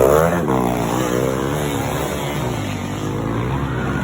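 Motocross bike engines revving, their pitch rising and falling with the throttle.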